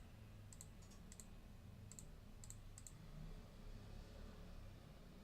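Faint computer mouse clicks, about six in the first three seconds at uneven intervals, over a low room hum.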